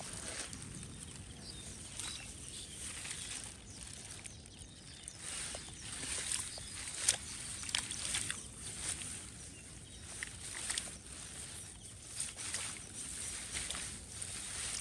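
Outdoor ambience in a wet field: a steady high hiss with scattered short knocks and clicks, some of them light splashes in shallow water.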